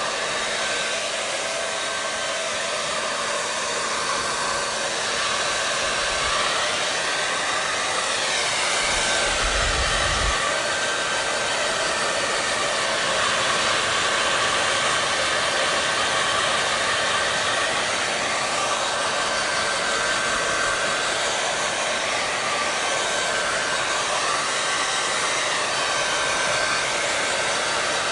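Hair dryer running steadily: a constant rush of air from the fan with a thin steady whine over it, the tone wavering slowly. A brief low rumble comes about nine seconds in.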